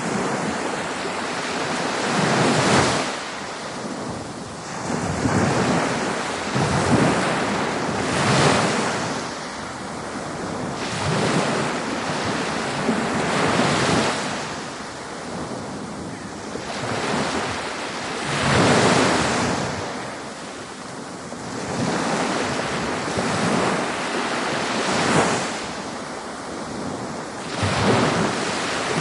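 Ocean waves breaking on a beach, one after another, the surf swelling and falling back every few seconds, with some wind noise on the microphone.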